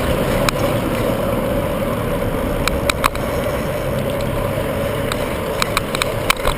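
Riding noise on a moving bicycle: a steady rumble of wind and tyres, with a few sharp clicks or rattles, several of them close together a little past halfway.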